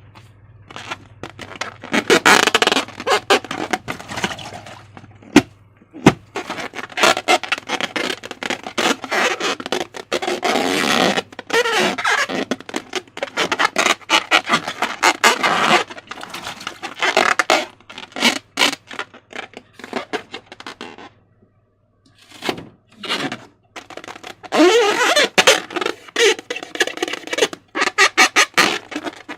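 Wet slime being squished and worked by hand against a rubber balloon: dense, irregular sticky crackling and squelching, with short rubbery squeaks. The sound pauses for a couple of seconds about two-thirds of the way through.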